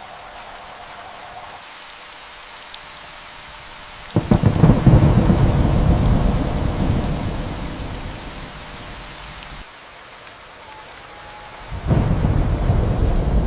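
Steady rain with two rolls of thunder. The first breaks suddenly about four seconds in and rumbles away over several seconds; the second starts near the end.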